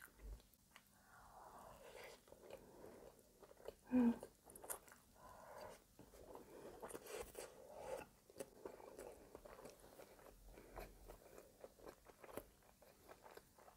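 A person chewing a mouthful of brioche French toast bake close to the microphone: faint, soft, wet chewing with many small mouth clicks. There is a brief vocal sound about four seconds in.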